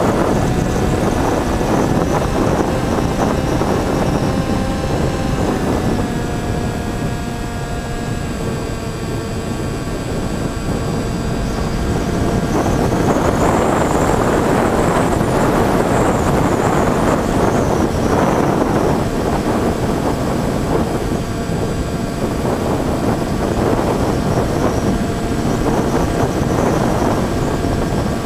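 Twin electric motors and propellers of a Finwing Air Titan RC plane in flight: a steady whine that drops in pitch twice, around six and eight seconds in, as the throttle comes back. Rushing wind noise runs under it and swells about halfway through.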